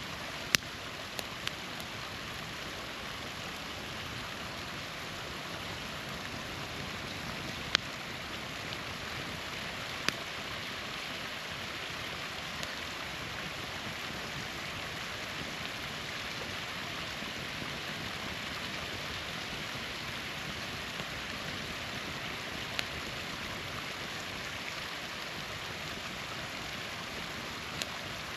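Small waterfall rushing steadily, with a campfire giving a few sharp, isolated pops and cracks over it.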